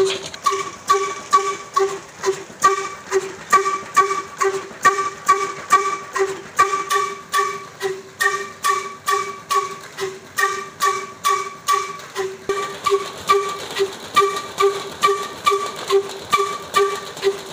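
Old 22 HP black diesel engine running steadily under load as it drives a tube-well turbine pump. It gives an even exhaust beat of about two to two and a half a second, each beat carrying a ringing tone.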